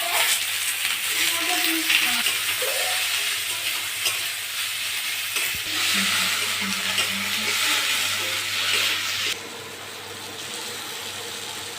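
Onions sizzling in hot oil in a kadai, being stirred. The sizzle drops to a quieter level about nine and a half seconds in.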